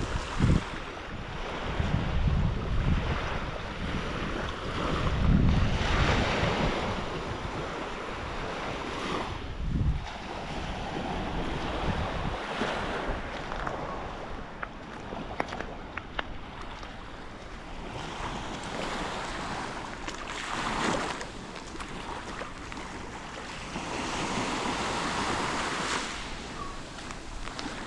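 Sea waves washing in and out on the beach in repeated swells, with wind buffeting the microphone as low rumbling gusts, strongest in the first ten seconds.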